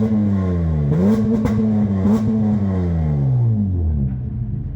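Acura MDX 3.5-litre V6 running through a freshly fitted full 3-inch exhaust with aftermarket mufflers and resonator, revving up and down. The engine speed climbs, dips, climbs again and holds for about a second, then falls away over the next couple of seconds.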